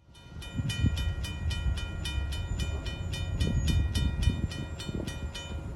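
A railroad bell rings rapidly, about three to four strikes a second, over a low rumble. The ringing starts just under half a second in and stops near the end.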